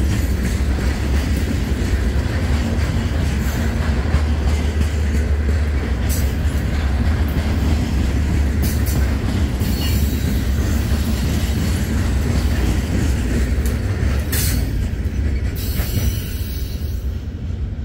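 Loaded stone hopper cars of a freight train rolling past: a heavy steady rumble with wheel clatter and several brief high squeals from the wheels. The rumble eases near the end as the last car goes by.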